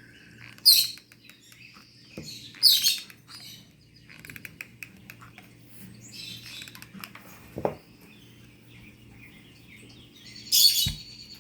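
Lovebirds calling: three loud, shrill calls about a second, three seconds and eleven seconds in, with softer chirps in between. A brief knock sounds near the end.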